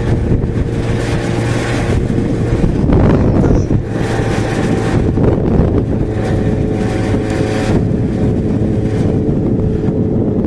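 Yamaha XJ6's 600 cc inline-four engine running at a steady highway speed, holding one pitch, with wind blowing across the microphone.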